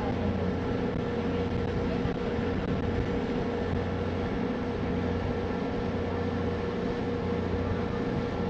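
Passenger ferry's engines running at a steady cruise: a constant low drone with a steady hum tone above it, over an even rush of noise.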